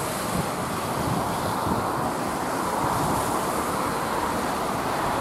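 Diesel passenger train running across a long rail bridge, heard as a steady, even rumble of wheels and engine.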